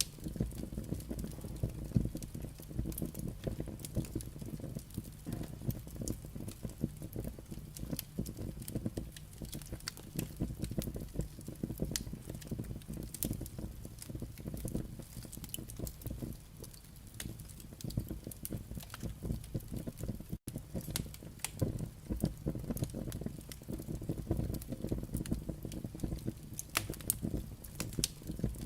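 Burning firewood crackling, a constant scatter of sharp pops and snaps over a low, steady rush of the fire. The sound cuts out for an instant about twenty seconds in.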